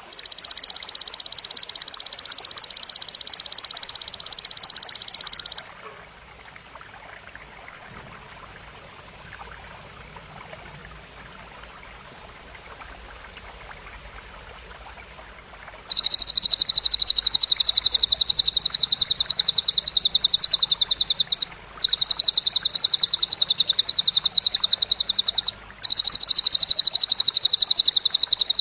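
High-pitched trilling of the cililin and grasshopper (belalang) material used to tutor songbirds. A dense, unbroken buzz stops about five seconds in and is followed by about ten seconds of faint background noise. Then a loud, rapidly pulsing trill starts, broken twice by short pauses.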